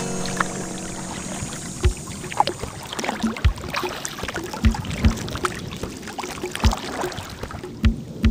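Kayak paddling on calm water: paddle blades dipping and splashing, with dripping and trickling sounds, and several irregular dull low thumps, as of a paddle knocking against the hull.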